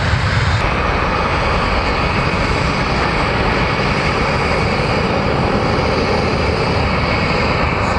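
Air Force fixed-wing plane's engines running loudly and steadily.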